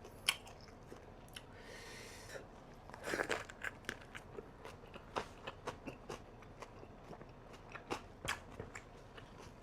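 Close-up chewing of a roll of boiled pork belly, fresh herbs, winged beans and rice vermicelli: crisp crunching and wet mouth clicks at irregular moments, with a louder bout of crunching about three seconds in.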